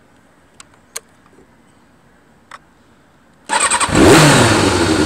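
A few faint clicks, then the 2000 Kawasaki ZX6R's inline-four cranks briefly on the starter and catches about three and a half seconds in. It flares up loud through its full Muzzy exhaust, then settles toward a steady fast idle.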